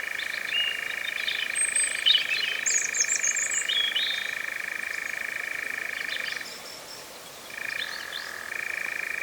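European nightjar churring: a steady, unbroken churr that stops about six and a half seconds in and starts again about a second later. Other birds call over it with short chirps and twitters.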